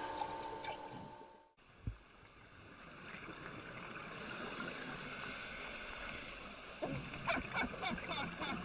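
Water noise from underwater footage: a steady hiss, with a run of bubbling starting about seven seconds in. A steady hum of several tones at the start cuts off suddenly after about a second and a half.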